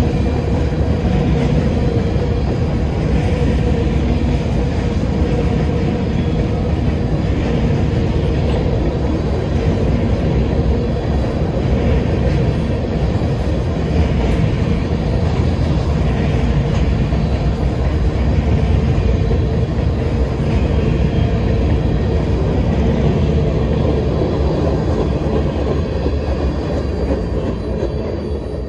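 Loaded covered hopper cars of a freight train rolling past: a steady rumble of steel wheels on rail with a faint clickety-clack and a steady whine. The sound fades out near the end.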